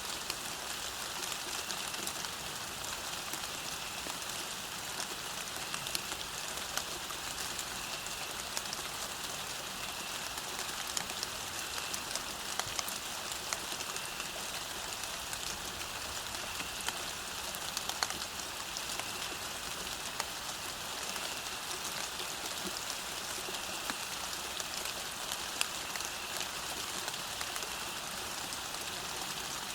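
Steady rain falling on a path: an even hiss with many individual drops ticking.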